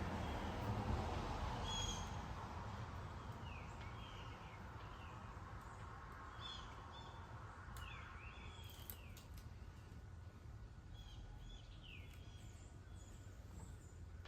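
Small birds chirping in the background: a scattered series of short, high, downward-sliding chirps over a faint steady background hiss, which is a little louder in the first couple of seconds.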